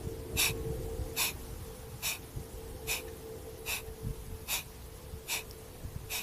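Kapalabhati breathing: sharp, forceful exhales through the nose, about eight evenly spaced puffs a little over one per second, with quiet passive inhales between. A faint steady hum runs underneath.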